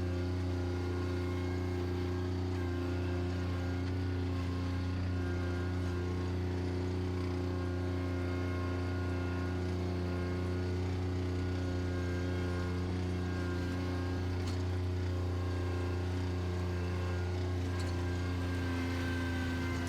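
Bobcat tractor's engine running at a steady, unchanging speed with a constant hum.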